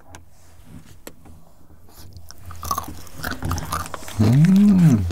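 Close-up mouth sounds of chewing crisp bark chocolate studded with dried fruit and nuts: small sharp crunches and clicks. Near the end comes a short hummed 'mmm' that rises and falls in pitch, the loudest sound.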